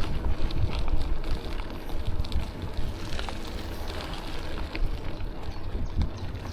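Wind rumbling on the microphone of a moving bicycle rider, with scattered light clicks and rattles.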